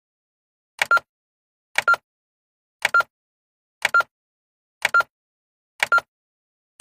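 Countdown timer sound effect: a short double tick with a brief beep on the second tick, once a second, six times, with silence between.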